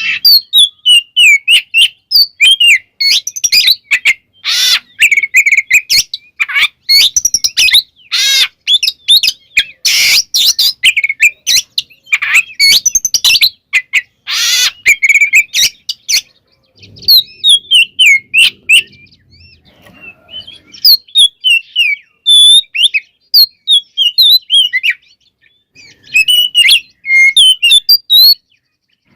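Oriental magpie-robin (kacer) singing a rapid, varied song of quick whistled chirps and glides mixed with harsh rasping notes. It is busiest in the first half, eases off briefly about two-thirds of the way through, then picks up again.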